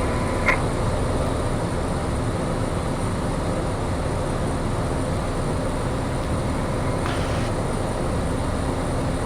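Steady drone of a Piper light aircraft's piston engine and propeller heard in the cockpit during the climb-out, with a brief click about half a second in.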